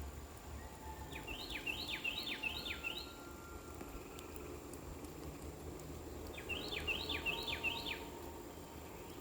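A songbird sings two phrases a few seconds apart, each a quick run of six or seven sharply falling notes, over a steady hiss of gentle spring rain.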